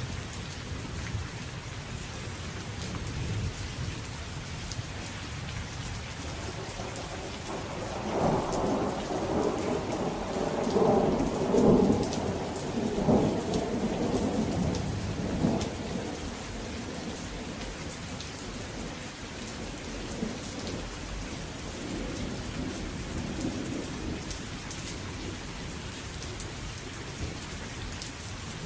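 Steady rain falling, with a long roll of thunder that builds about a quarter of the way in, peaks near the middle and dies away, then a fainter rumble later on.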